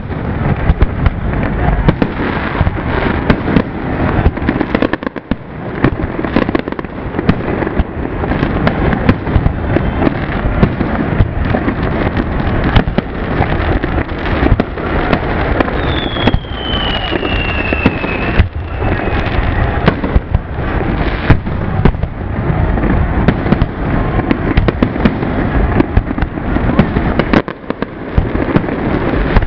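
Aerial fireworks display: a rapid, near-continuous barrage of shell bursts and crackling. About halfway through, a whistle falls in pitch for a couple of seconds.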